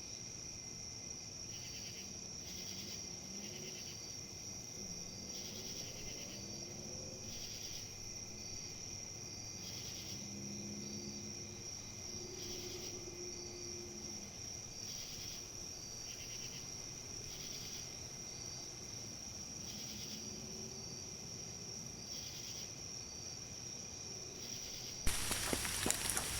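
Insects calling, likely crickets: a steady high-pitched buzz with short pulsed chirps about every second. About a second before the end, it switches abruptly to louder steady rain.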